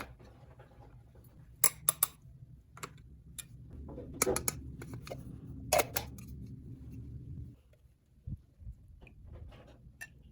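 Small hard toy pieces being handled, giving a series of sharp clicks and light clinks, busiest about four to six seconds in, over a low steady hum that stops shortly after.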